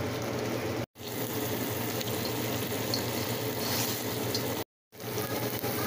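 Chicken wings frying in shallow oil in a pan, a steady sizzle. It drops out completely twice, briefly, about a second in and near the end.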